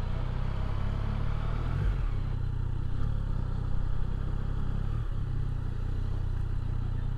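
Motorcycle engine running at low revs while the bike rolls slowly, a steady low note with two brief breaks about two and five seconds in.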